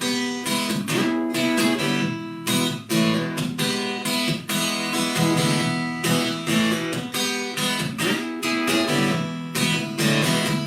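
Acoustic guitar strummed in a steady rhythm through changing chords: the closing instrumental bars of a country song, with no singing.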